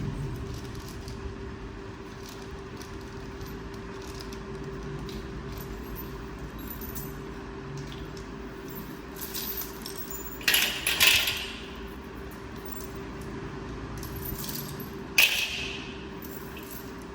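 Metal clinking and jangling in two short bursts, about ten and fifteen seconds in, over a steady low hum.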